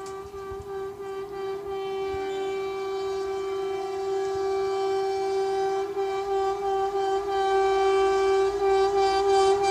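Indian Railways locomotive horn sounding one long, steady note, growing louder as the train approaches, with the low rumble of the oncoming train building in the last few seconds.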